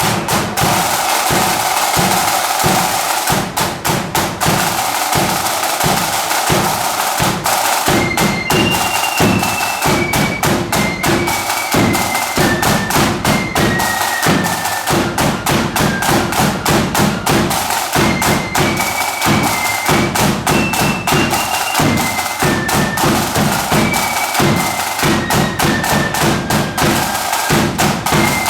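Marching flute band playing: snare and bass drums beat a fast rhythm alone at first, and about eight seconds in the flutes come in with a high, shrill melody over the drums.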